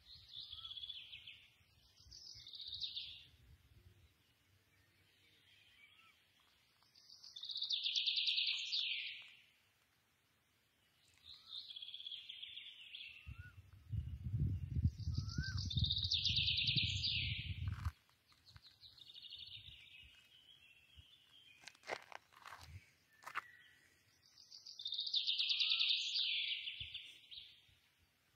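A wild bird singing short descending phrases every few seconds, with fainter little rising notes between them. A low rumble comes in for a few seconds about halfway through.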